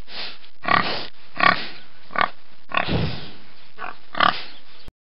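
Domestic pig grunting: about seven short grunts, each under a second apart, over a steady hiss. The sound cuts off abruptly near the end.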